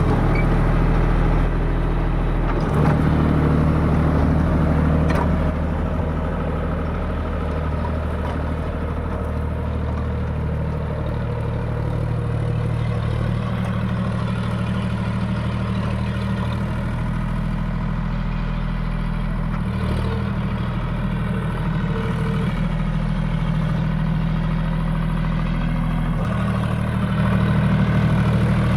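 John Deere 5050D tractor's three-cylinder diesel engine running steadily, its note shifting several times as the engine speed or load changes.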